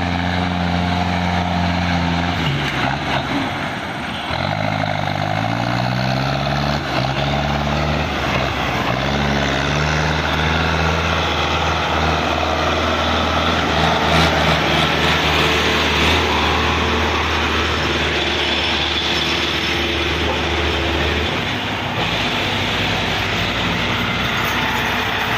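Belarus 510 tractor's diesel engine running under a heavy noisy wash, its pitch sliding up and down a few seconds in as the revs change, then holding steady until it changes again near the end.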